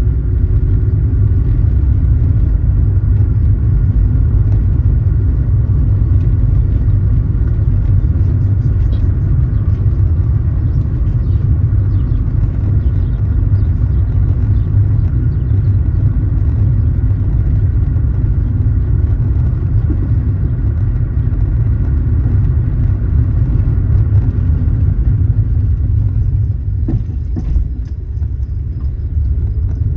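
Steady low road and engine rumble of a car driving, heard from inside the cabin, easing briefly near the end.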